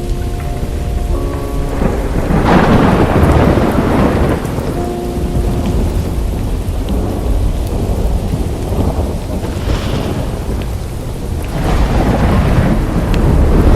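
Heavy rain falling steadily with thunder rolling through it, swelling about two seconds in and again near the end. A few soft held synth notes sound briefly about five seconds in.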